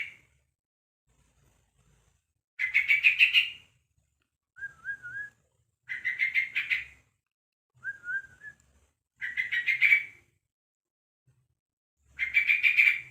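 Young yellow-vented bulbul (trucuk), about a month old, calling: rapid chattering bursts about a second long, repeated roughly every three seconds, with a short, quieter wavering whistle between them.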